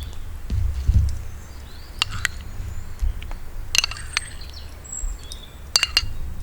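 Cooking utensils and dishes clinking, about five sharp knocks with a short ring, over a steady low rumble of wind on the microphone; small birds chirp faintly.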